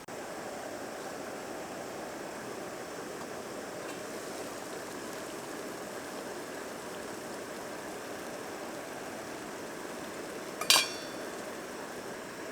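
Steady hiss, with one sharp clink of tableware near the end.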